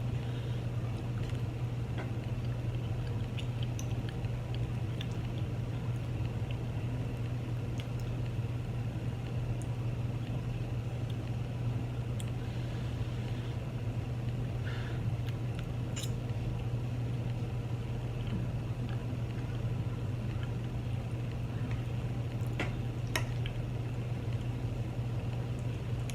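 A steady low hum, with faint scattered clicks and small mouth sounds of someone eating chili cheese fries.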